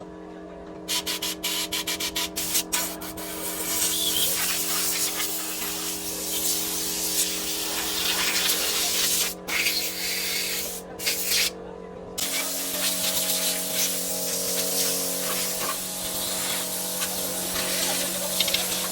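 A hissing spray jet, cut on and off in quick short bursts for the first few seconds and then held on, over a steady hum of several tones that shifts about twelve seconds in.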